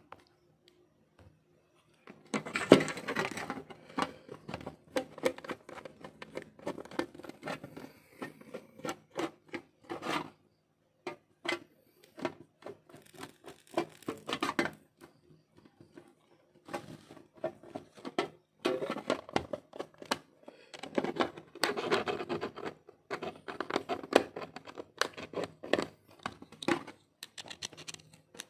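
Hands working on an Asus A456U laptop's plastic case: a long run of irregular sharp clicks and scraping, starting about two seconds in and coming on and off with short pauses.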